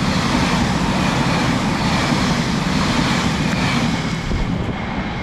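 Northern passenger train running past close by: a steady loud rumble of wheels on rail and running gear with a faint droning tone, easing off a little near the end.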